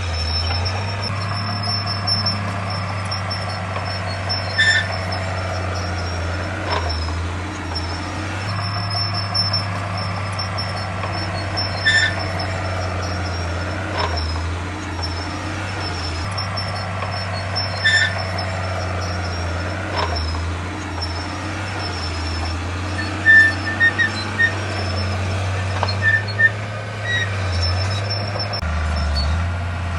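Heavy diesel construction machinery running steadily with a low drone. Short high-pitched squeaks come every several seconds, and now and then there is a sharp clank.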